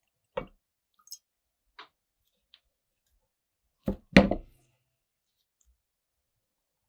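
Parts being handled on a workbench: a sharp click, a few faint taps, then two louder knocks about four seconds in.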